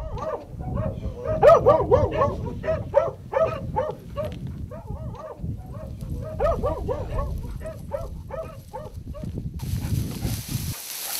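Brittany bird dogs barking in quick, repeated barks, several overlapping at times. The barking stops about a second and a half before the end, giving way to a steady hiss.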